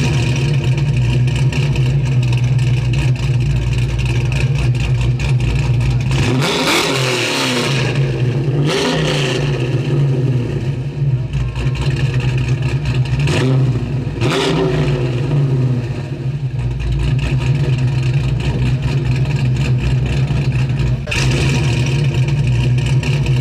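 Twin-turbo Viper V10 engine of a 1968 Dodge Charger idling steadily, revved briefly a few times: around six to nine seconds in and again around thirteen to fifteen seconds in.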